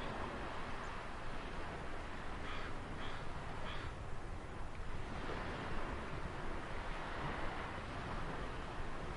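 Ocean waves washing steadily on a shore, with three short bird calls about two and a half to four seconds in.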